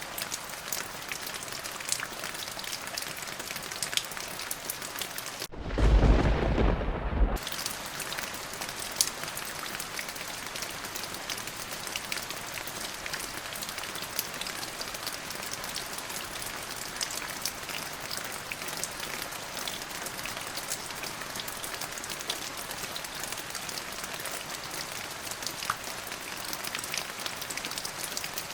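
Steady rain falling, with one deep clap of thunder about six seconds in that lasts under two seconds.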